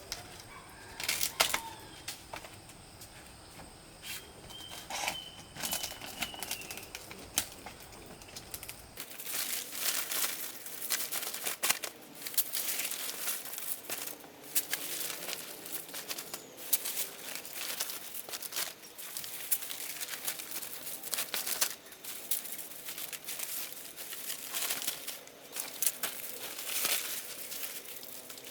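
Rustling and crinkling handling noise with dense, irregular sharp clicks, starting suddenly about nine seconds in. Before that there are a few scattered clicks and a brief chirp.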